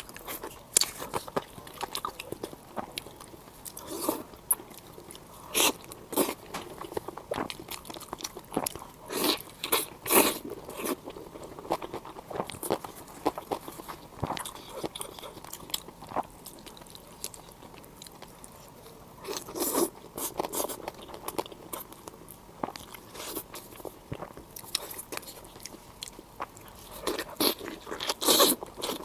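Close-miked eating: irregular crunchy bites and chewing, with denser runs of crunching about a third of the way in, around two-thirds of the way and near the end.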